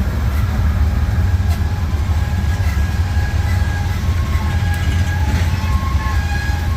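Train rolling with a steady, heavy low rumble, with faint high squeals that come and go over it.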